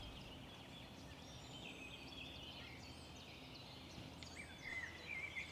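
Faint birdsong: small birds chirping and twittering in short high calls, busier near the end.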